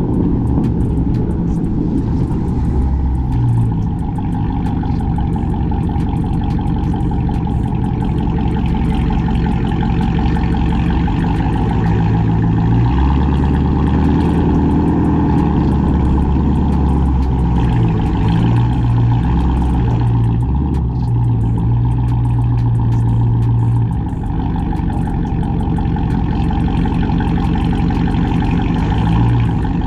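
Cammed, catless, straight-piped Chrysler 300C Hemi V8 driving, its exhaust giving a loud low drone that steps up and down in pitch several times as the revs change.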